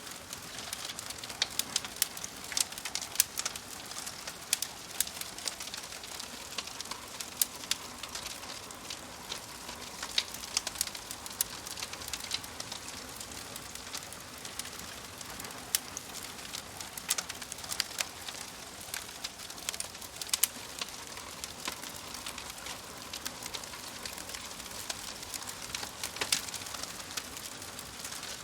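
Wood fire crackling, with irregular sharp pops and snaps over a steady hiss. A bird calls in the background.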